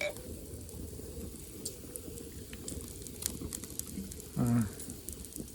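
Pork belly sizzling over a wood campfire, a steady low hiss with scattered sharp crackles throughout. A brief voice sounds about four and a half seconds in.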